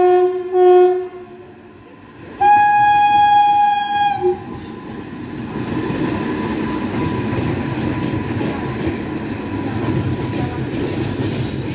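WAP-5 electric locomotive's air horn: a lower-pitched blast that ends about a second in, then a higher-pitched blast of about two seconds. Then the locomotive and coaches roll past with a steady rumble of wheels on rails.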